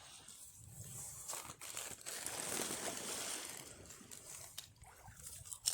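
Rustling and crinkling, with scattered sharp clicks and one louder click near the end.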